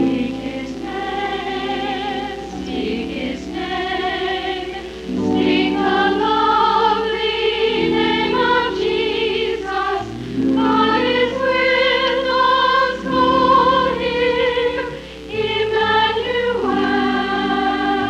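Church chancel choir singing a Christmas cantata with vibrato, in phrases with short breaths between them, over held chords in the accompaniment.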